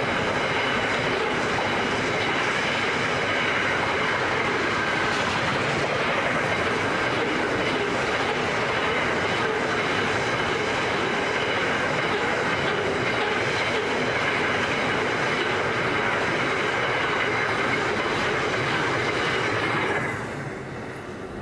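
Container wagons of a long freight train rolling past: a steady, loud noise of wheels on rail with faint thin high tones of wheel squeal. It falls away suddenly near the end as the last wagon clears.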